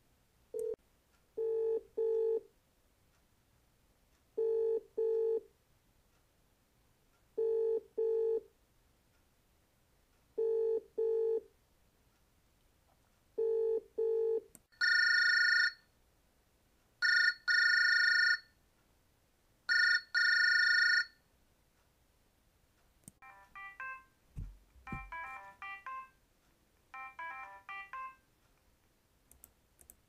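A run of telephone sounds: a low double-beat ringback tone, as heard by a caller while the other end rings, repeated five times about every three seconds in the British-style cadence. Then three long, loud bursts of a phone ringing, followed near the end by a fast, busy electronic ringtone pattern.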